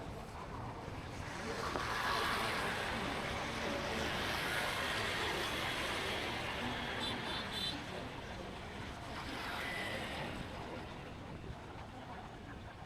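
Motorbike ride through city traffic: a steady rush of wind and street traffic that swells about two seconds in, with a few short high beeps about seven seconds in.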